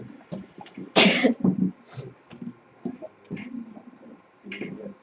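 A person coughing once, a short loud burst about a second in, with faint low voices or movement around it.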